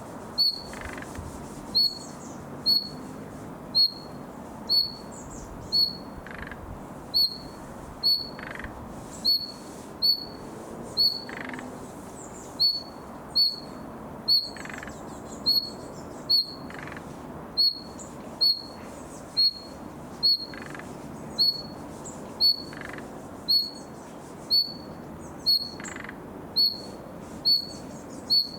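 Young nightingale calling: one short, high note repeated steadily about once a second, with fainter lower notes in between.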